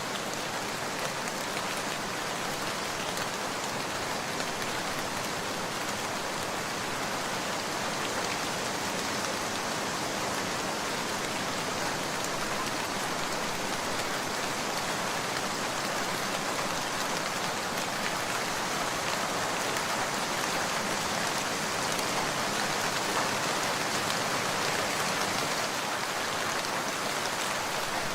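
Steady rain falling, an even, dense hiss with no let-up.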